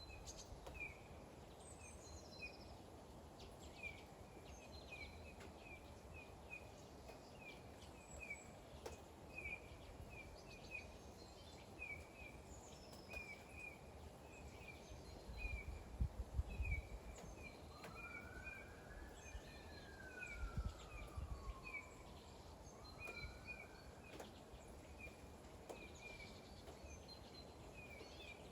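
Faint steady hiss of rain with a small bird chirping over and over, about once or twice a second. In the middle a rising then falling whine passes, with two short low rumbles.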